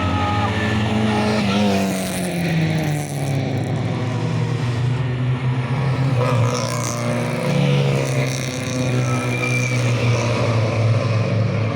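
A rally car's engine running hard on a closed road, its pitch falling and then rising again as it goes through the revs and gears while passing.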